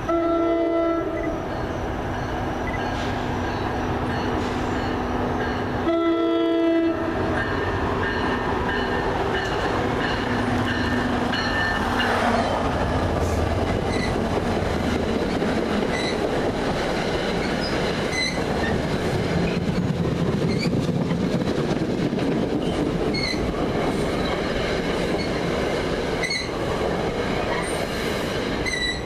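NJ Transit commuter train sounding its horn in two short blasts, one at the start and one about six seconds in, then passing at speed with a steady rumble of wheels on rail and repeated sharp clicks over the rail joints.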